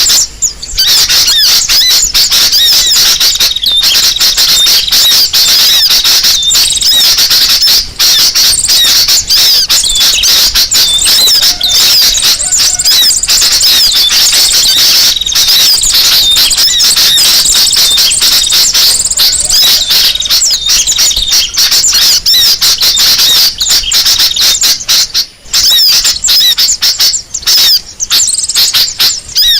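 Loud, dense chatter of many small birds calling at once in rapid, high-pitched chirps and squeaks: a bird-lure recording of noisy, agitated birds. It thins briefly a few times near the end.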